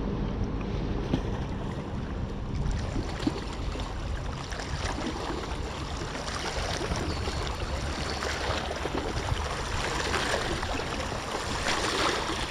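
Wind buffeting the microphone, a steady low rumble with an even outdoor hiss over it.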